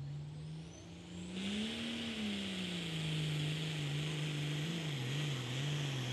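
Turbocharged Super Pro Farm pulling tractor engine under load. The revs climb about two seconds in, then settle and waver, with a loud turbo hiss over the engine note. The sound cuts off suddenly at the end.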